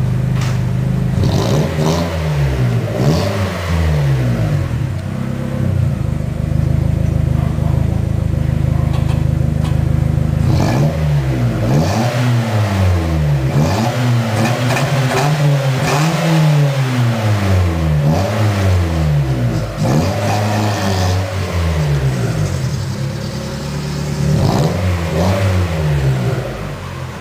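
Mazda MX-3 with a sport exhaust, revved in repeated quick throttle blips that rise and fall back to idle. It idles steadily for a few seconds in between, about a third of the way in.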